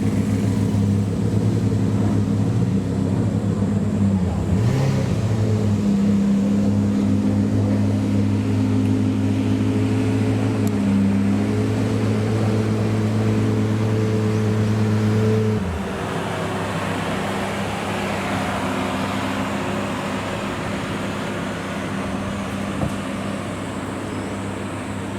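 Supercar engine idling close by with a steady, deep hum. About two-thirds of the way through, the loudest low note drops away and a quieter steady engine hum carries on.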